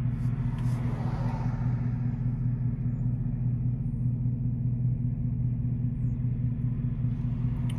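Idling car engine heard from inside the cabin: a steady low hum that does not change. A soft breathy exhale of pipe smoke comes about a second in.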